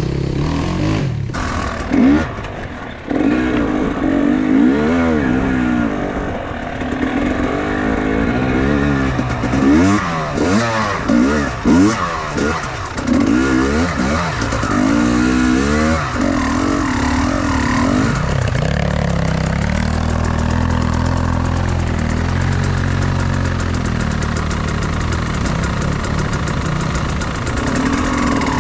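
Enduro motorcycle engine revving up and down again and again for about sixteen seconds, then running at a steadier, lower note.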